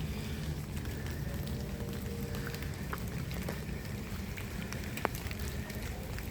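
Steady rain falling, with scattered drops ticking on surfaces and one sharper tick about five seconds in, over a steady low rumble.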